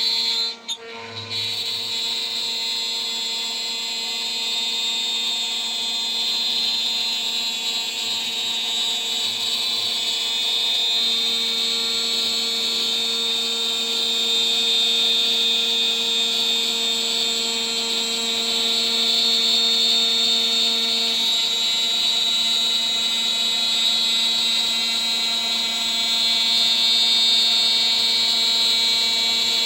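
Home-built CNC machine's spindle turning at high speed while a 3 mm three-flute end mill cuts, a steady high whine with cutting hiss. The sound drops briefly about a second in, then carries on.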